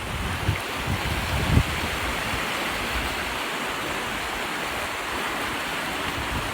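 Sea surf washing steadily, with wind buffeting the microphone in low gusts during the first two seconds, the strongest about one and a half seconds in.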